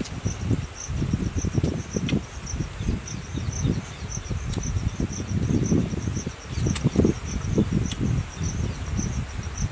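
A man eating with his fingers and gnawing a pork bone, making irregular close-up chewing and mouth sounds. Behind them an insect keeps up a high chirp of evenly repeating pulses, a few a second.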